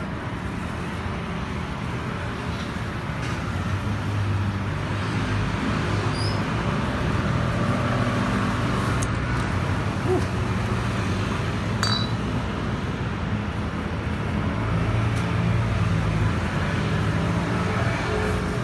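Steady low rumble of passing road traffic, with one sharp metallic clink about nine seconds in.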